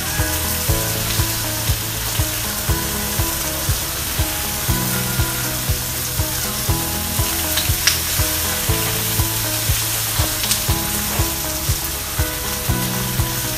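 Pork chops sizzling on a flat-top griddle, a steady frying hiss, under background music with a steady beat of about two thumps a second.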